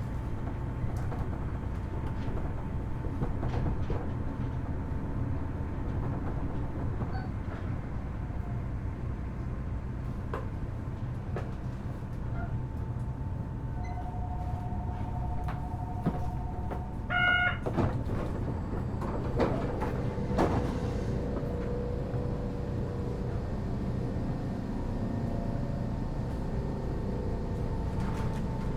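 Inside a Kitakyushu Monorail Series 1000 car standing at a station, with a steady low hum from the train's equipment throughout. About halfway through there is a short electronic beep, and several knocks come from the sliding doors opening and closing.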